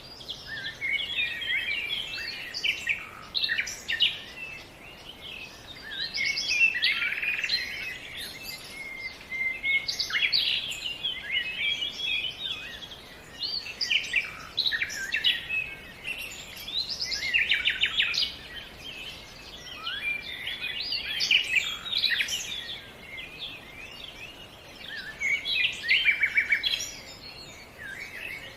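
Several songbirds singing and chirping at once: a continuous chorus of quick trills and short chirps, swelling in phrases every few seconds.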